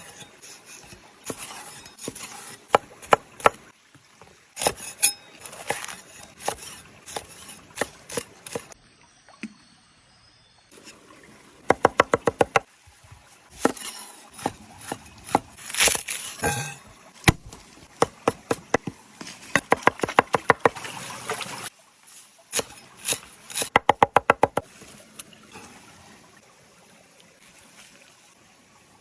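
Outdoor food-preparation sounds in quick edited cuts: scattered sharp knocks and several runs of rapid chopping, about five to six strokes a second, as of a knife on a cutting board.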